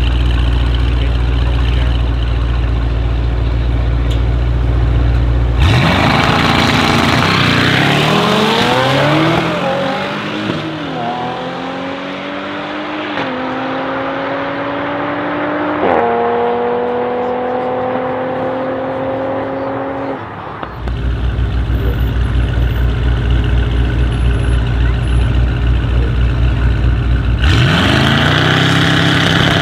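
Brabus 800 E63 S's 4.0 L twin-turbo V8 rumbling at the start line alongside another car, then a full-throttle drag launch about six seconds in. Engine pitch climbs through several upshifts and fades as the cars pull away down the strip. Later a low, pulsing idle, and near the end a sharp rev climbing again as the next pair lines up.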